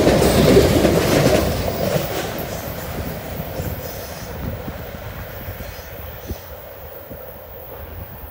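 Norfolk Southern freight train's last cars rumbling past fast on the rails, then fading steadily as the end of the train moves away, with faint wheel clicks over the rail joints.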